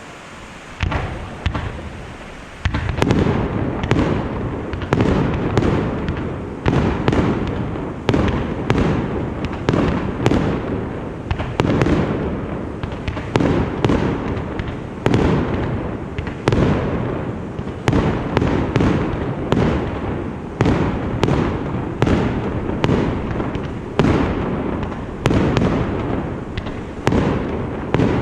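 Aerial fireworks bursting in a dense barrage: one bang about a second in, then from about two and a half seconds a steady run of sharp booms, one or two a second, with a continuous rumble between them.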